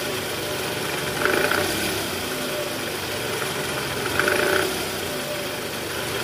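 Toyota 2AZ-FE 2.4 L four-cylinder engine running, heard from under the car near the oil pan, with two brief louder bursts about a second in and about four seconds in. The rough 'grkrkrk' noise from the oil-pan area is taken by the mechanic for a worn, loose balancer shaft, typical of this engine.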